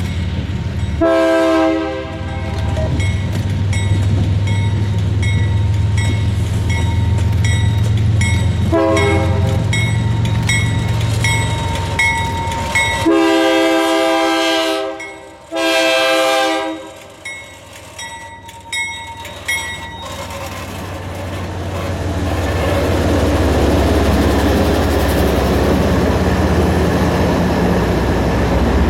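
Diesel locomotive sounding its multi-chime air horn in four blasts, the last two long, over the low rumble of its engine while a bell dings steadily. Then the train's wheels rumble and clatter past on the rails, growing louder near the end.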